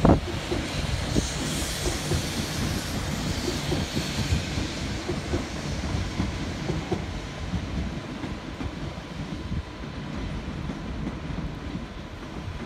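Renfe Cercanías commuter trains running through a station track yard: wheels clatter over rail joints and points with a steady rumble and many short knocks, starting with one sharp knock. A rushing hiss comes in the first few seconds as a unit passes close by.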